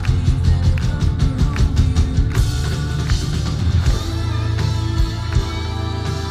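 Symphonic metal band playing live: rock drums and electric guitars, with rapid drum strokes that give way about two and a half seconds in to a cymbal crash and held chords.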